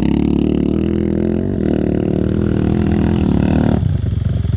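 Enduro motorcycle engine running on the throttle with a steady note, then easing off about four seconds in.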